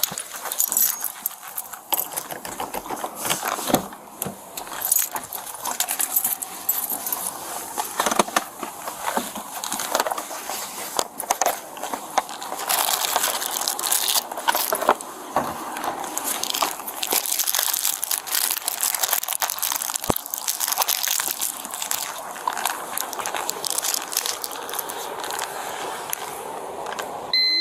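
Rustling and crackling handling noise on a body-worn camera microphone, with scattered clicks and knocks, as the officer moves about and fetches the breath-test device.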